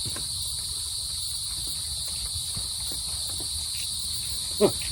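Steady, unbroken, shrill chorus of forest insects, with a low rumble beneath it and one short louder sound near the end.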